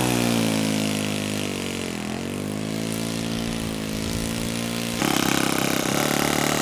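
Model airplane glow engine (ASP .61) running on the ground: its pitch dips over the first two seconds, rises a little, then about five seconds in the sound suddenly gets louder.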